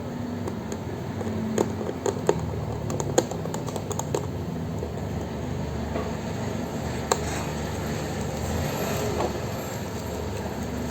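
Scattered light clicks and taps over a steady low hum, with a cluster of sharper clicks in the first few seconds and another about seven seconds in.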